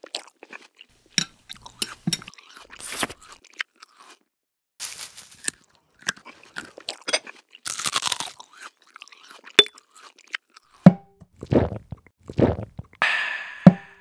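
Close-miked eating sounds: crunching and chewing in short, irregular bursts with brief pauses, with a few deeper, lower sounds near the end.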